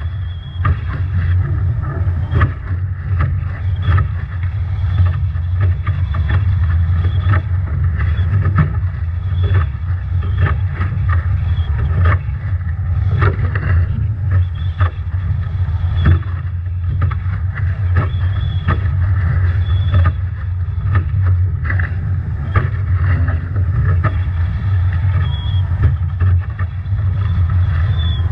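Strong wind buffeting the microphone on a Nacra 17 foiling catamaran sailing hard in storm-force wind and heavy waves, with many sharp splashes of spray and wave slaps against the hull. A faint high whine comes and goes.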